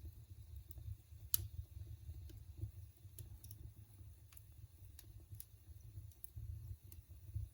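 Fire crackling: scattered sharp pops and snaps, one louder than the rest about a second in, over a steady low rumble.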